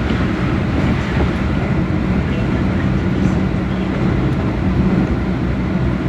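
Keihan electric train running, heard from the driver's cab: a steady rumble with a low hum.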